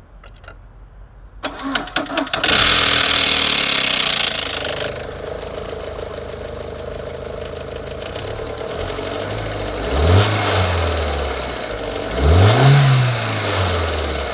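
Audi A4 B6 engine cranked by the starter and catching, running loudly at first and settling to idle, then revved briefly twice; the knock is taken for a worn timing chain tensioner.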